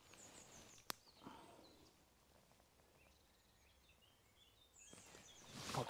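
Near-quiet streamside with faint, high songbird chirps coming in short runs, a single sharp click about a second in, and a rustle near the end.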